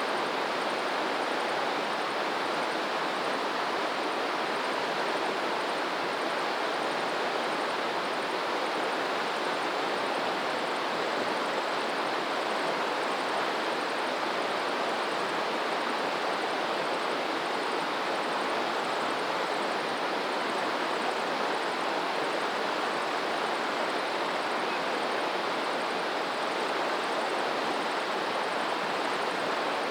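Steady rush of flowing water, an even noise that holds at one level without swelling or breaking.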